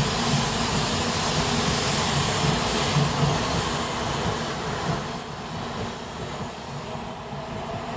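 N700-series Shinkansen train rolling slowly along the platform: a steady rushing noise over a low hum that grows quieter and duller after about four and a half seconds as the train slows.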